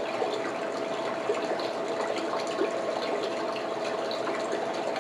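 Steady rushing background noise with a faint steady hum, dotted with a few small clicks.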